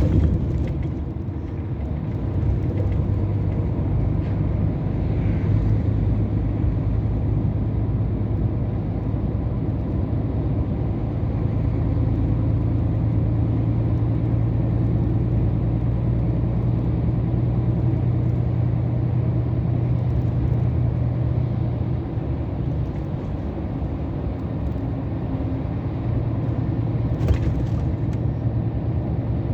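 A 2021 Scania R500 truck's engine and road noise while cruising, a steady low drone whose pitch shifts a little as the road speed and load change. A brief sharp tick near the end.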